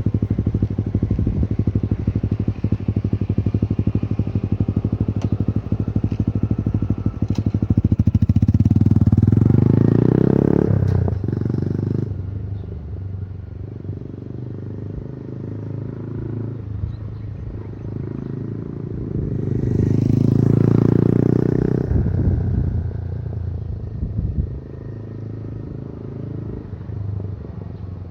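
Honda Grom's single-cylinder four-stroke engine running through a K-Factory aftermarket exhaust. A steady, loud exhaust note rises in pitch and loudness about eight seconds in and drops off abruptly around eleven seconds. After that it runs quieter, with a second smooth rise and fall around twenty seconds.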